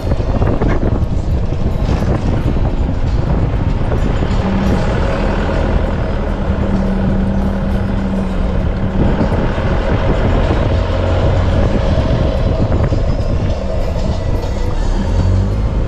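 Four-wheel-drive vehicle driving a rough dirt track: steady engine and tyre rumble with frequent knocks and rattles from the bumpy ground.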